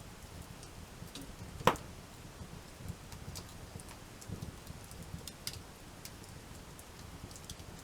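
Wood campfire crackling with scattered small snaps, and one sharp, much louder pop about a second and a half in.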